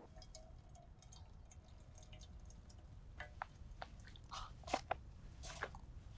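Close-miked eating sounds: scattered small wet clicks and smacks of chewing, growing denser after about three seconds, with a couple of sharper pops near the end.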